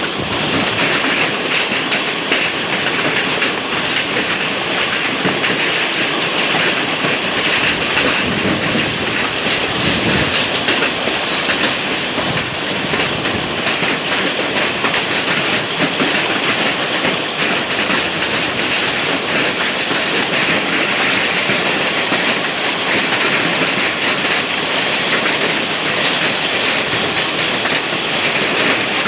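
Hailstorm: hailstones pelting down in a loud, steady clatter of countless small impacts.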